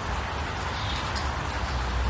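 Steady hiss of falling rain, with a low rumble beneath and a few faint high chirps over it.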